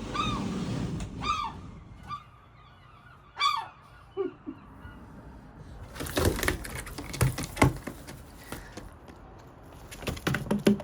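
Seagull calling: three short, arched squawks in the first few seconds, with fainter chirps between. About six seconds in comes a run of sharp clicks and knocks, with a few more near the end.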